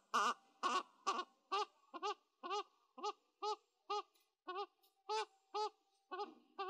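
Black-crowned night heron (vạc) lure call: short, arched croaking notes repeated evenly, about two a second, a little louder in the first second.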